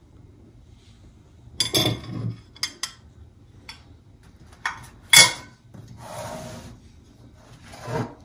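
Household objects being handled and set down during tidying: a series of knocks and clicks, the loudest about five seconds in, and a surface being rubbed for about a second after it.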